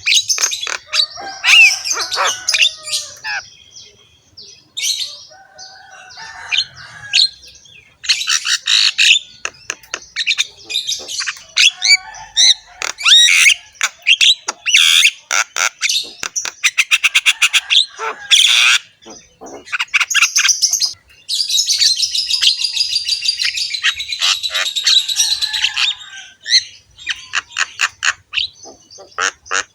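Javan myna (jalak kebo) singing: a varied run of harsh, rasping calls, whistles and rapid clicking rattles, broken by short pauses, with a long buzzy chattering phrase in the second half.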